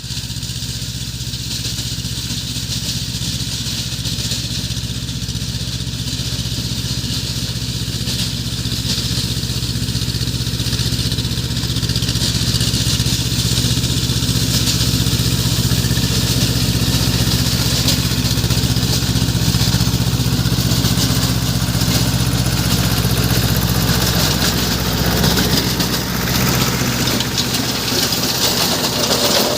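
Swaraj 724XM Orchard mini tractor's diesel engine running at a steady speed; its even note turns rougher and less steady near the end.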